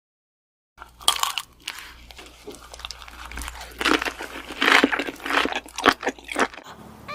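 Crunchy food being bitten and chewed close to the microphone, in irregular crackling bites that start about a second in.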